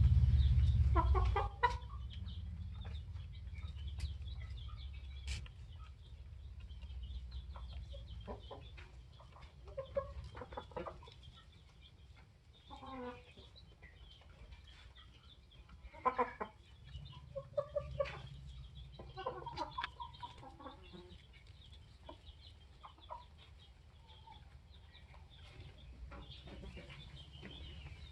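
Flock of Polish hens clucking on and off, short scattered calls with quiet gaps between them. A low rumble covers the first second and a half.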